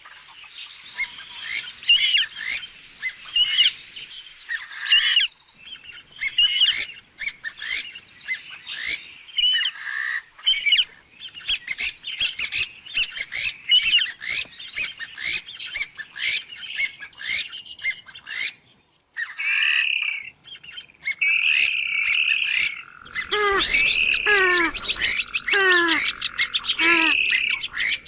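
Purple swamphen calls in a rapid, continuous series of short downward-sliding notes. About three-quarters of the way through, a lower, denser run of calls starts, with a steady high tone behind it.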